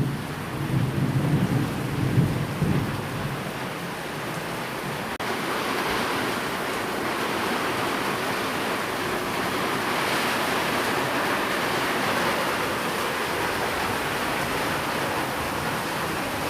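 Steady rain with a low thunder rumble that fades away over the first few seconds. About five seconds in, the rain changes abruptly to a steadier, brighter hiss.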